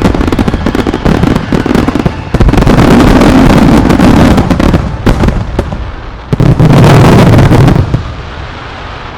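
Dense barrage of aerial fireworks bursting, with rapid crackling over overlapping low booms. A last loud surge comes about six seconds in, then the sound dies away into a fading rumble near the end.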